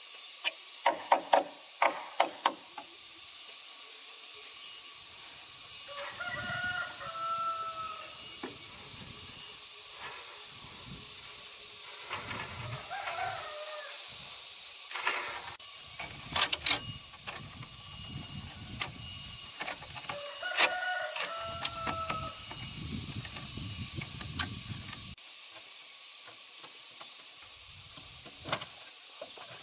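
A rooster crowing three times, each crow about a second and a half long and several seconds apart. A few sharp knocks come near the start and again in the middle.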